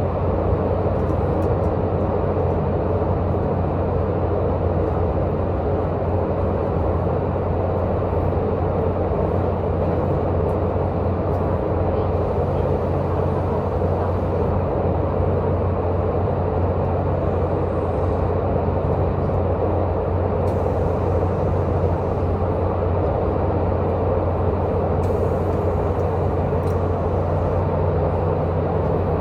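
Diesel engine of a Taiwan Railways diesel multiple-unit express running steadily under way, with a constant low hum and rumbling wheel-on-rail noise, heard from inside the passenger car.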